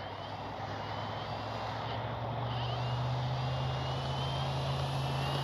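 Electric RC Corsair's brushless outrunner motor and 18x12 three-blade propeller powering up for the takeoff run. A steady propeller hum sits under a faint high whine that climbs slowly in pitch as the sound grows a little louder.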